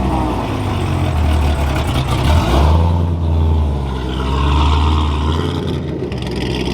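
C6 Corvette ZR1's supercharged V8 running as the car rolls past, with a sharp rise in revs about two and a half seconds in.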